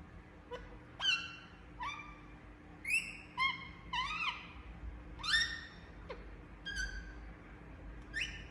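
Indian parrot giving a series of short, shrill calls, roughly one a second, many of them rising sharply in pitch.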